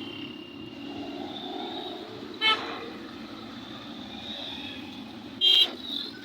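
Vehicle horn tooting twice, about three seconds apart, the second blast louder and longer, over the steady engine noise of traffic passing on the road.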